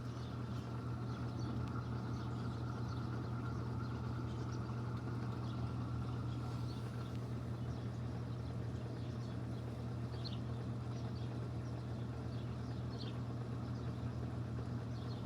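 Panasonic washing machine in its spin cycle, running with a steady low hum.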